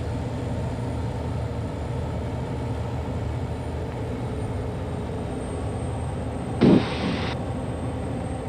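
Steady drone of the Soloy 206's Allison turbine engine heard inside the cabin, with a short loud burst of radio noise about six and a half seconds in.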